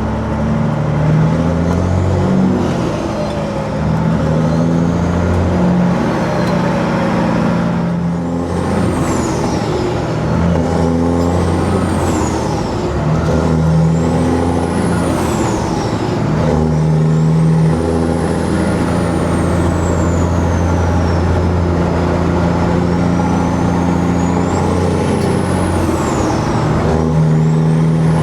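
Peterbilt 379's diesel engine pulling the truck, its note stepping up and dropping back several times as the gears are worked through. A high whine rises and falls over it again and again.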